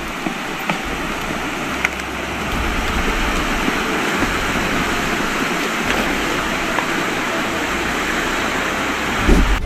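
Steady rushing noise, a little louder from about two and a half seconds in, with a few faint clicks.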